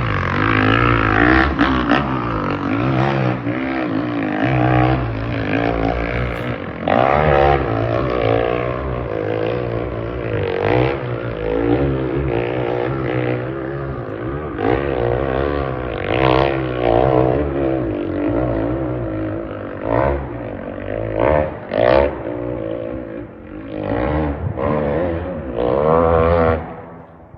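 Dirt bike engine revving hard under load on a steep hill climb, its pitch rising and falling with the throttle. In the last few seconds it comes in short separate bursts of throttle.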